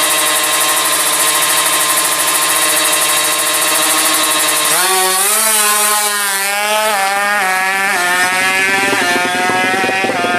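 Drag-tuned, high-compression Yamaha Jupiter motorbike engine running at high revs. It holds a steady high pitch for about four and a half seconds, then drops off suddenly and is blipped up and down several times.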